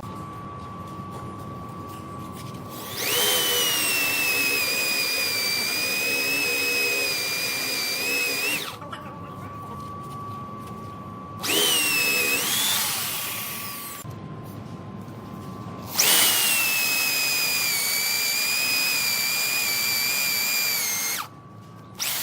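Woodworking power tool motor whining in three bursts. The first and last run for about five seconds each. The short middle one spins up and back down.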